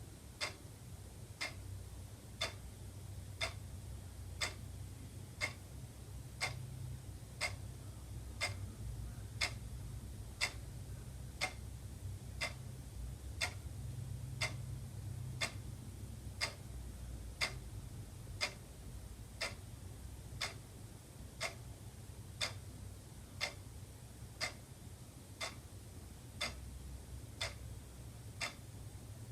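Wall clock ticking steadily, one sharp tick a second, over a low steady hum.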